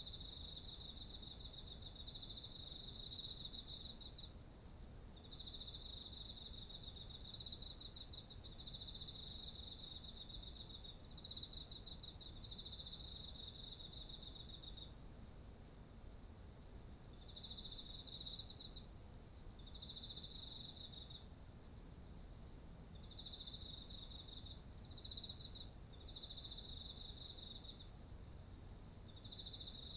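Autumn insects chorusing: one steady, unbroken high trill, with two lower-pitched insects trilling in on-and-off phrases of one to two seconds that overlap. A faint low rumble of background noise lies underneath.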